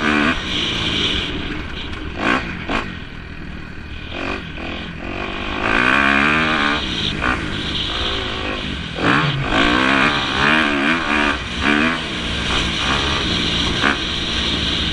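Motocross motorcycle engines racing, revving up and down again and again as the bikes accelerate and back off.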